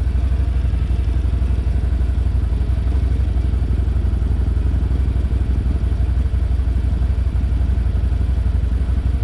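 ATV engine idling steadily, a low even rumble with a fast pulsing beat.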